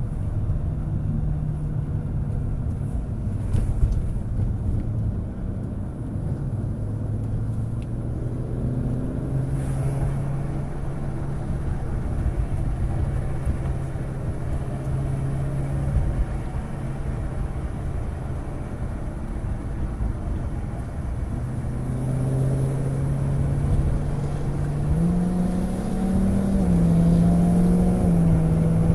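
Car engine running at low, fairly steady revs, its pitch shifting down and up a few times and rising higher near the end.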